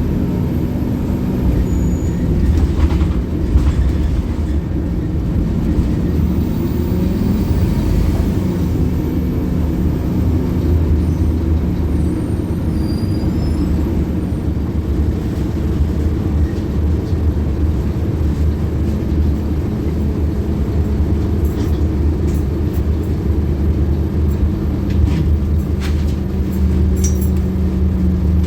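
Scania K280UB city bus running along on the move: a steady diesel engine rumble with road noise, with a few faint clicks and rattles near the end.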